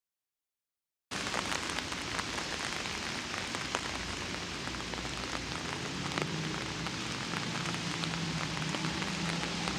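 Silence for about a second, then rain falling steadily, with many separate drops ticking sharply on a surface.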